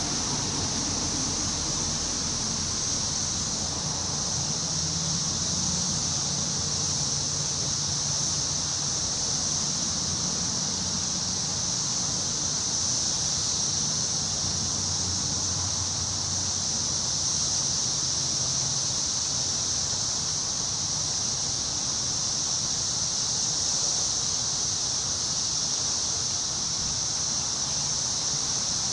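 A steady, high-pitched insect chorus that keeps on without a break, over a low rush of wind in the trees.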